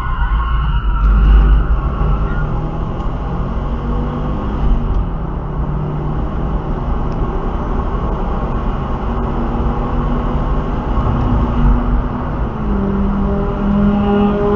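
Car engine running with heavy low rumble and road noise, as from a moving car; the engine note climbs and grows louder near the end.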